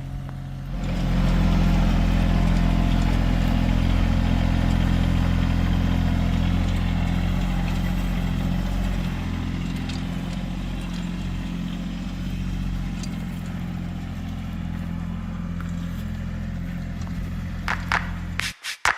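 Tractor engine running steadily, louder about a second in and then easing off slowly.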